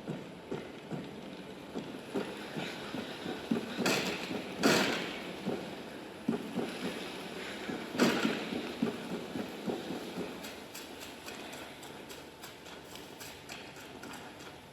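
A run of irregular knocks and thuds over a steady background noise, with louder, sharper hits about 4, 5 and 8 seconds in.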